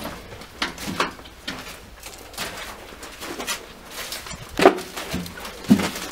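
Irregular footsteps through shallow water and mud, with two louder steps near the end.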